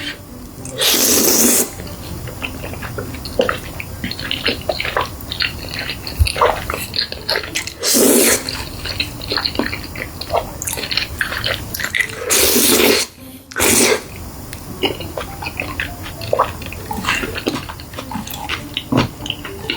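Close-miked eating: a person chewing with many short wet smacks and clicks, broken by four louder noisy bursts of under a second each.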